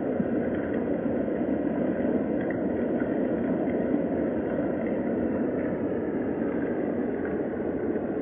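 Steady rain ambience: a dense, even hiss of rainfall with faint scattered ticks of drops.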